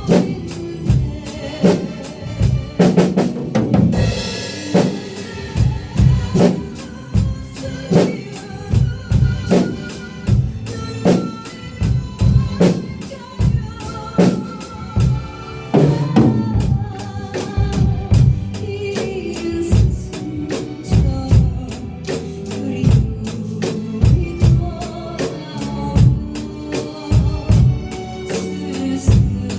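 Drum kit played along to a backing track: a steady kick-and-snare beat with fast hi-hat ticks over the track's pitched accompaniment, with a cymbal crash about three seconds in and another strong accent around the middle.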